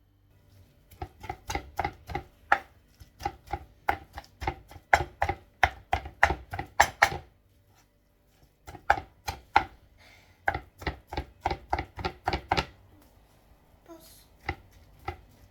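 Knife chopping chicken on a cutting board: quick, even strokes, about three or four a second, in runs with brief pauses between them.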